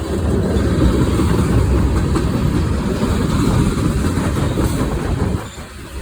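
Freight train passing close by: a loud, steady low rumble of the locomotives and cars on the rails, dropping away briefly near the end.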